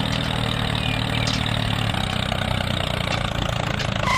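An engine running steadily at idle, with a short beep right at the end.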